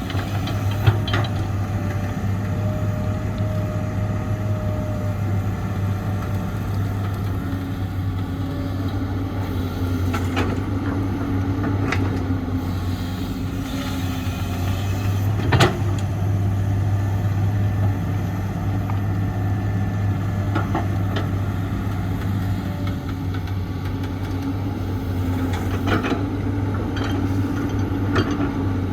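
Heavy diesel construction machinery, an excavator loading dump trucks, running steadily with a deep engine hum. Occasional sharp metallic clanks and knocks stand out, the loudest about a second in and again about halfway through.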